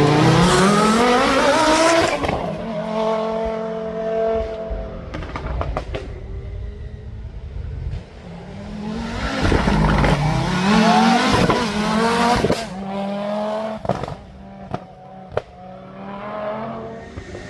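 Rally car engine revving hard past, its pitch climbing steeply, then holding, then climbing again about nine seconds in. Sharp cracks come in between and in the quieter later part.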